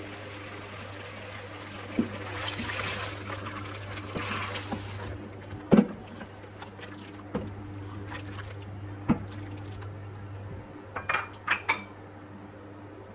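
Tomato paste being poured and scraped from a bowl into a pot of chicken, with a spoon knocking against the pot and bowl several times and a quick run of clinks near the end.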